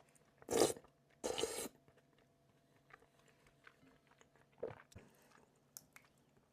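Close-miked eating of spicy Buldak noodles with butter chicken: two loud, short mouthfuls about half a second and a second and a half in, then quiet chewing with small mouth clicks, and another short burst near the end.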